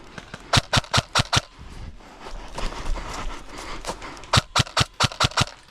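Airsoft replica firing two quick strings of shots: about five sharp cracks, then a stretch of rustling noise, then about six more, roughly five shots a second.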